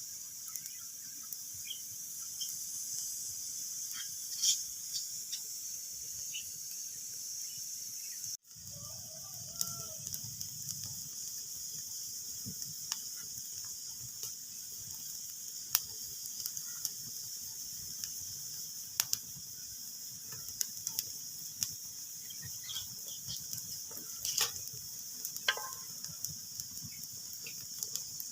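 Wood fire crackling in a fireplace: irregular sharp pops and snaps over a steady hiss. The sound drops out for an instant about eight seconds in.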